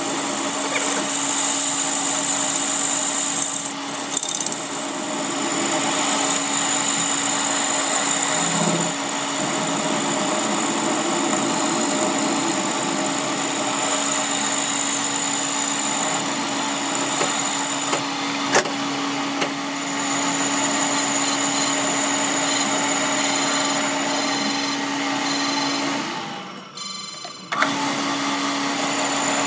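Electric workshop machinery running steadily, a power tool or machine motor on the camshaft repair job. It has a steady hum and a sharp click about two-thirds of the way through, and it drops out briefly near the end before starting again.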